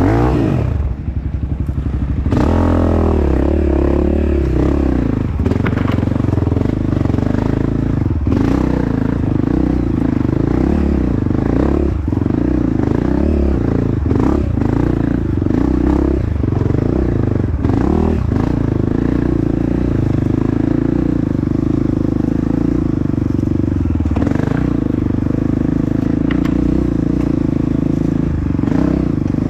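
Honda CRF dirt bike engine running hard on a trail, holding a steady note with the revs dropping about a second in and climbing again soon after. Scattered knocks and clatter from the bike over rough ground.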